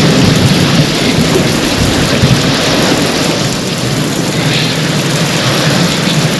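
Heavy rain falling steadily, over a low continuous rumble of thunder.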